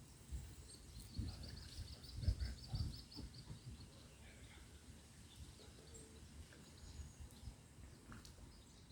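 A small bird gives a quick, high trill of about a dozen notes near the start, with a few faint chirps later, over low rumbling thumps.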